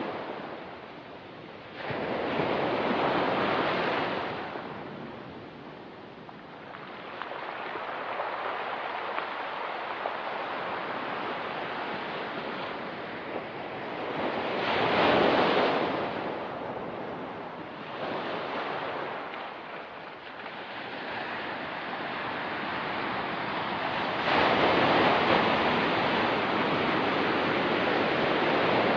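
Ocean surf breaking and washing on a rocky beach, swelling and falling in several surges, the strongest about halfway through and again for the last few seconds.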